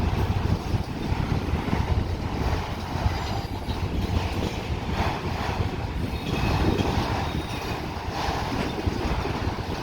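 Freight train cars rolling past with a steady rumble of wheels on rail, and a faint high wheel squeal now and then.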